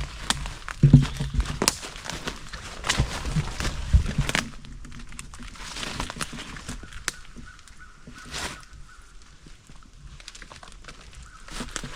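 A small dog scrabbling over a downed dead tree: irregular knocks, scrapes and crackles of paws and claws on dead wood and dry branches. The loudest knocks come about a second in and about four seconds in, and it grows quieter after the middle.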